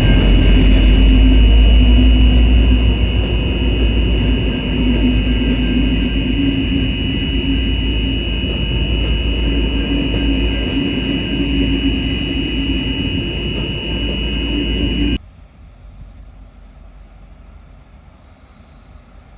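N class diesel-electric locomotive running past hauling a train, with a heavy low rumble, an engine hum and a steady high whine, easing a little after a few seconds. About 15 seconds in it cuts off suddenly to a much quieter background hiss.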